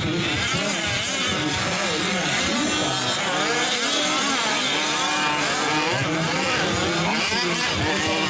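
Several 5th-scale gas RC trucks' small two-stroke engines revving up and down together on track, their pitches rising and falling and overlapping.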